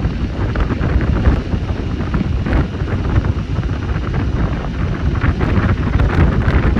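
Wind buffeting the microphone on a moving Cyclone RX401 motorcycle, a dense low rumble with the bike's engine running underneath.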